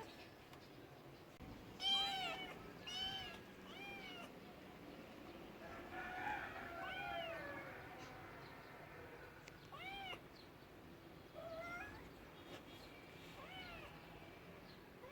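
A cat meowing over and over: about seven short meows, each rising and falling in pitch, spaced a second or more apart, the loudest about two seconds in.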